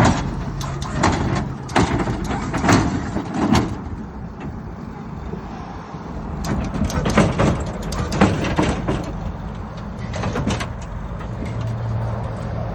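Customised Mazda B2200 mini truck running, with a string of short clunks and hissing bursts in two clusters as its moving body parts work.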